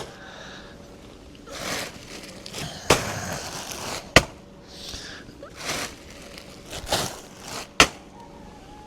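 A bag of food scraps being handled and squeezed to break up its contents: short crinkling rustles, with a few sharp clicks or knocks in between.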